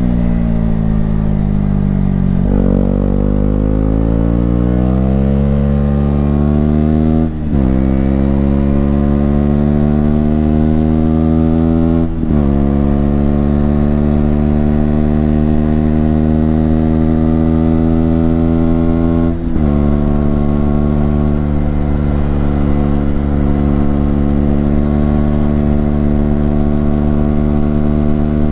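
KTM Duke 125's single-cylinder four-stroke engine pulling hard through the gears: the revs climb, drop sharply at each upshift about 2.5, 7.5, 12 and 19.5 seconds in, and climb again, more slowly in the higher gears.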